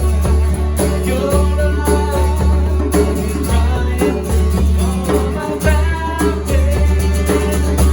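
A worship band playing a song: guitar and a heavy bass under a singing voice, with a steady beat.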